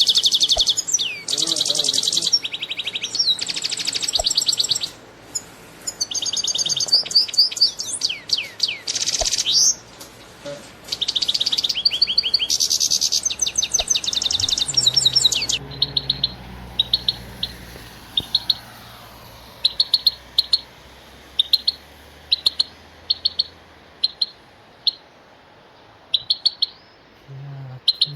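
Songbirds singing: fast trilled phrases and whistles for the first half, then single short chirps repeated about once a second.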